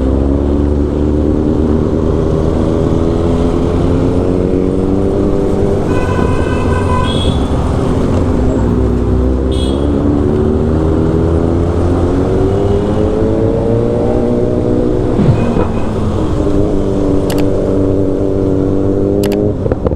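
Motorcycle engine running under way, its note climbing and dropping several times as the bike accelerates and slows, over a steady low rumble. A vehicle horn beeps briefly about six seconds in.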